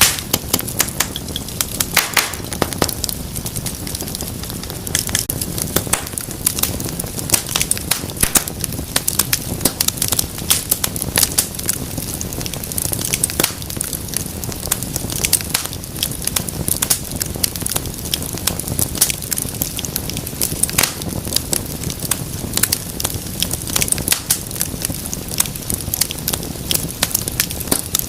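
Wood fire burning, with frequent sharp, irregular crackles and pops over a steady low rumble of flames.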